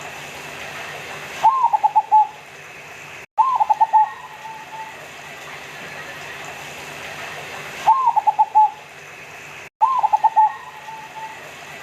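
Zebra dove (perkutut) cooing: four phrases in two pairs, each a rising-and-falling opening note followed by a quick run of short coos.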